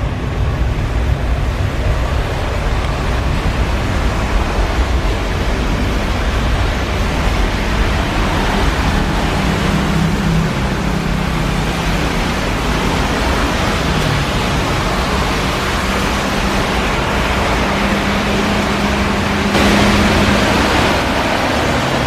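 Jet airliner engine noise: a loud, steady rush with a low hum underneath, turning brighter and slightly louder near the end.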